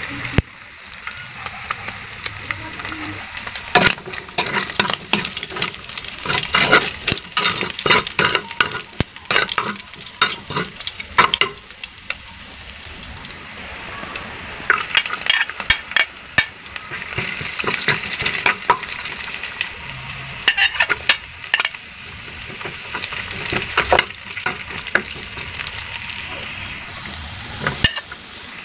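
Pieces of pork fat frying in a pan, sizzling with sharp irregular crackles and pops, while a utensil stirs and scrapes them around.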